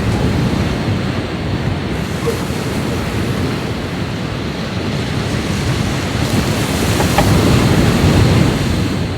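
Sea surf washing onto the shore in a steady rush, with wind buffeting the microphone; the surf swells a little louder near the end.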